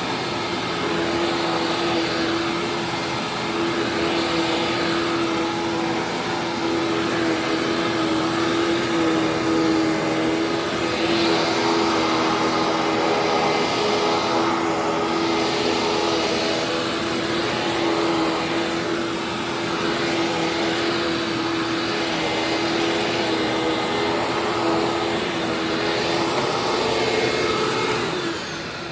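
Hoover WindTunnel WidePath upright vacuum cleaner running steadily: a strong motor tone over a rush of air, its tone shifting slightly as it works. Near the end it is switched off and the motor winds down with a falling pitch.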